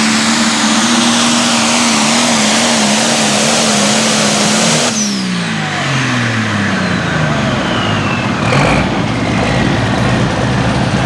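Turbocharged diesel pulling tractor held at full throttle, then shut off about five seconds in: the engine note drops away toward idle while the turbocharger's whistle winds down in a long falling glide. A brief low rumble comes near the end.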